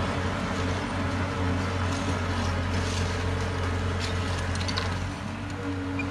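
Heavy diesel engine of construction equipment running steadily, a low drone with a faint rattle over it.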